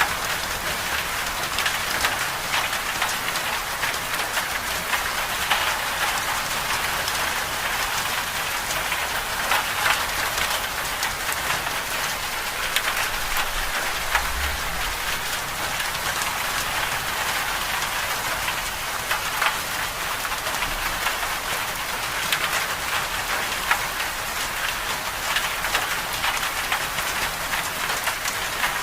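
Winter-storm ambience: a steady hiss of precipitation pattering on a surface, dense with small ticks and unchanging throughout.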